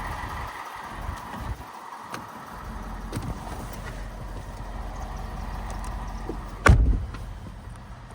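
Pickup truck with a steady low hum, a few small clicks, and one heavy thud of a door shutting near the end.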